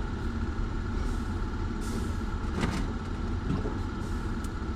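Steady low machinery rumble from an offshore rig, with a faint steady high tone over it and a single sharp click about two and a half seconds in.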